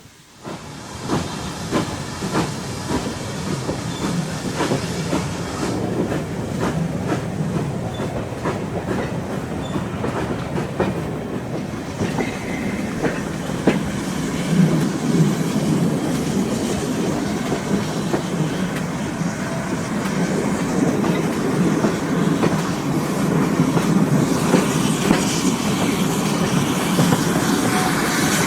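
Train running along the line, its wheels clicking over rail joints in an uneven rhythm over a steady rumble, slowly growing louder toward the end.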